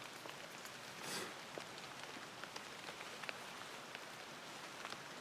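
Steady light rain falling, with scattered drops ticking. A brief rustle about a second in.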